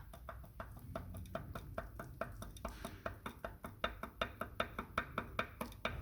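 Lexus GS 350 V6 engine running with a steady, rhythmic knock, about four strikes a second, over a low hum; the knocks grow louder in the second half. The knock comes from the right bank's piston group, as found when the engine was opened.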